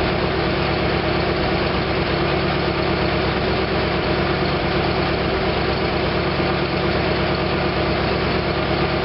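1956 DeSoto Seville's freshly rebuilt V8 running steadily during its first-start break-in run, through the car's old exhaust.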